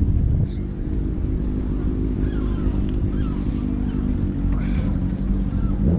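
Motorcycle engine running steadily at a low, even speed, with faint voices in the background.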